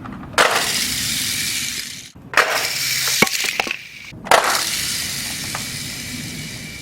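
Die-cast toy cars released at once from a plastic race-launcher toy, clattering and rolling down its plastic ramps. The sound comes in three bursts that each start suddenly and trail off, with a few sharp clicks in the middle one.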